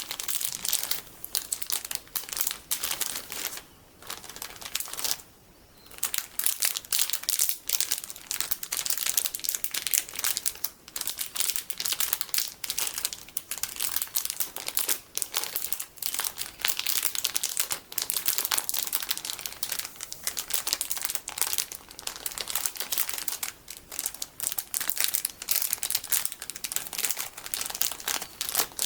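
Plastic packaging holding golden sticky beads being crinkled and squeezed: dense, crisp crinkling with two brief pauses, about four and five and a half seconds in.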